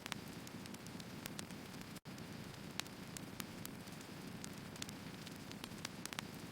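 Firewood burning with a steady low rush of flame and frequent sharp, irregular crackles and pops. The sound drops out for an instant about two seconds in.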